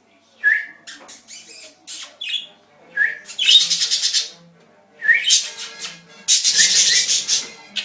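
Pet budgerigars chirping and squawking: short rising chirps, each followed by harsh, scratchy calls, several times over.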